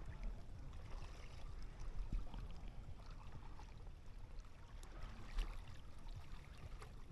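Faint, steady low rumble with soft water lapping and small scattered ticks.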